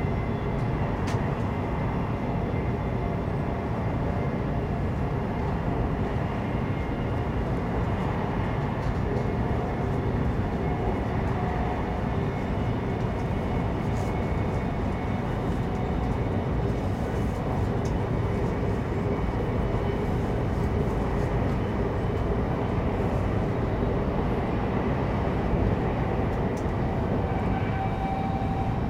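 Cabin noise inside a CRH2 high-speed electric train under way: a steady rumble with faint steady tones riding over it.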